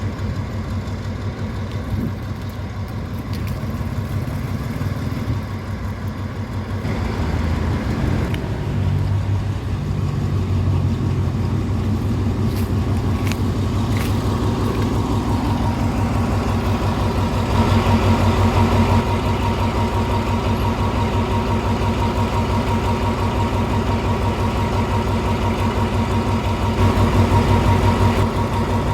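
Diesel engine of the Alsthom diesel-electric locomotive 4405 running steadily, its note and loudness stepping up twice, about a third of the way in and again past the middle.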